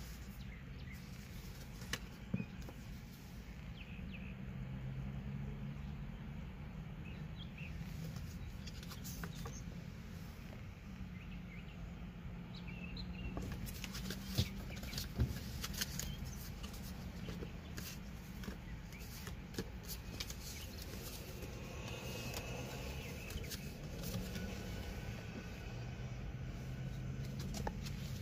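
Steady low hum of a car idling, heard from inside the cabin, with scattered small clicks and rustles of handling.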